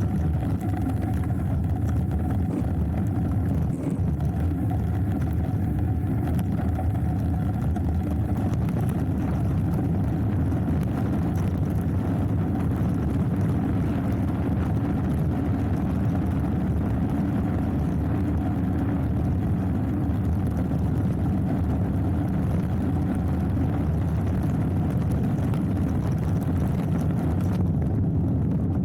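Steady low rumble of a mountain bike descent: wind on the action camera's microphone mixed with tyres rolling over the dirt trail.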